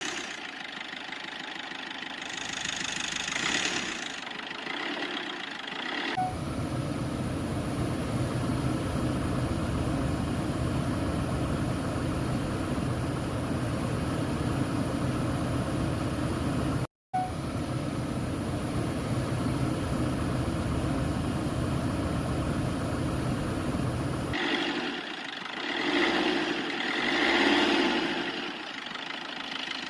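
A car engine sound running steadily through most of the stretch, cutting out for an instant about halfway, with uneven, brighter-sounding passages near the start and near the end.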